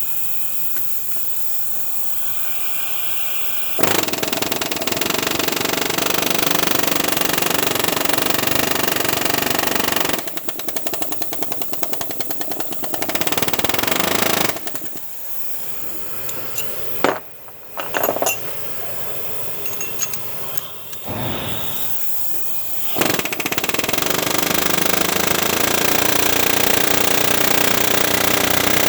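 Pneumatic air hammer rattling in bursts against a seized EGR valve on a diesel engine, to shock it loose so it can be twisted out. A steady hiss comes first; the hammer starts about four seconds in, stutters and stops briefly several times in the middle, then runs steadily again.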